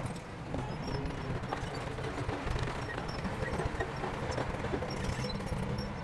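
Crawler bulldozer's diesel engine running steadily under load, with the clatter and knocks of its steel tracks.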